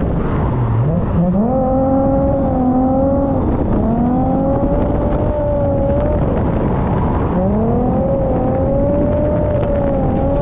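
Car engine revving hard three times: each time the pitch climbs quickly, holds high for a couple of seconds, then drops, over a constant heavy rumble.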